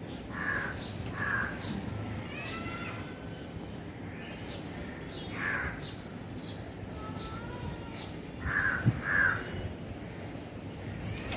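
Crows cawing, with a pair of caws near the start, one about midway and another pair near the end.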